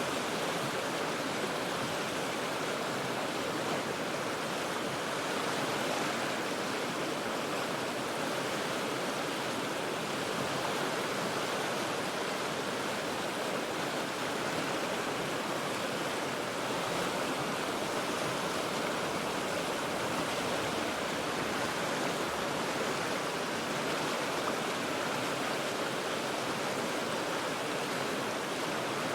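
The Cheat River rushing over rocks: a steady, unbroken wash of flowing water.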